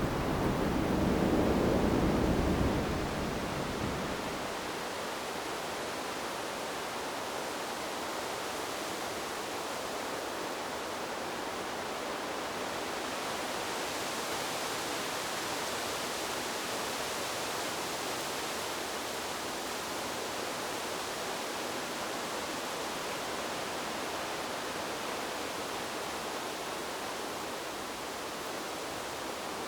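Wind blowing through a bamboo grove: a steady rustling hiss of leaves. A stronger, fuller gust fades in the first few seconds.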